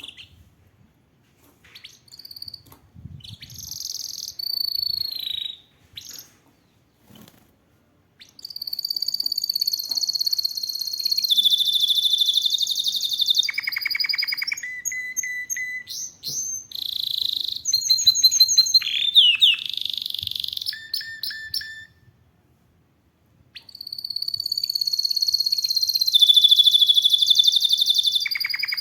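Domestic canary singing: long runs of fast trills and rolls mixed with clear whistled notes and slurred glides, in phrases broken by short pauses, with a brief silence about three quarters of the way through.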